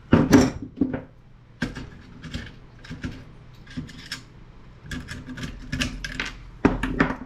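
Handling noise from a CRT monitor's circuit board being touched and moved: scattered clicks, taps and rubbing, loudest just after the start and near the end.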